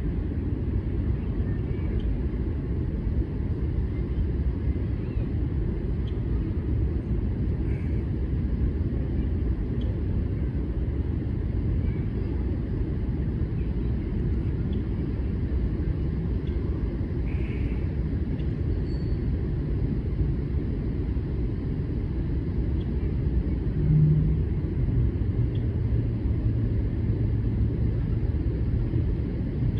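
Steady low outdoor rumble with a few faint short high chirps over it; about two-thirds of the way in a brief louder low hum, then a steady low drone until near the end.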